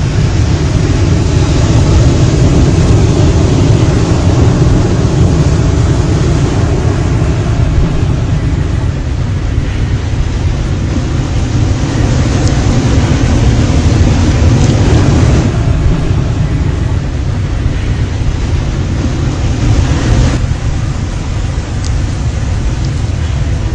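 Strong wind buffeting the microphone over pounding surf, with a wave surging louder about halfway through.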